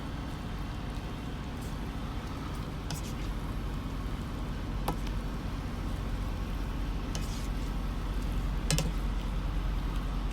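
Noodles and sauce sizzling in a pan, with a few light clicks of a utensil against it, over a low steady hum.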